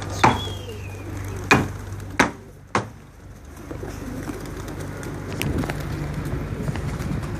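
Domestic pigeons cooing over a steady low hum, with four sharp knocks in the first three seconds.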